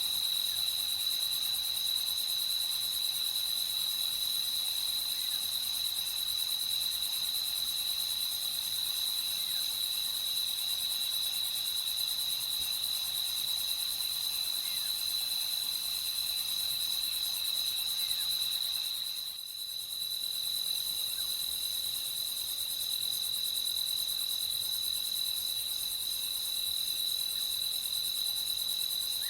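Night chorus of crickets trilling continuously in one steady high-pitched tone, with a brief dip in level about two-thirds of the way through.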